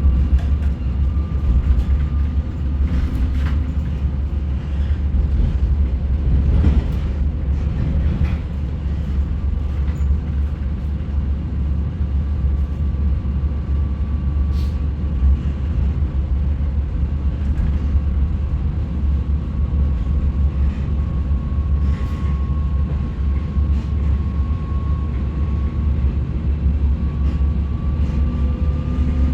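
Regional passenger train running, heard from inside the carriage: a steady low rumble, a faint whine that wavers in pitch, and a few sharp knocks as the wheels pass over rail joints and points through the junction.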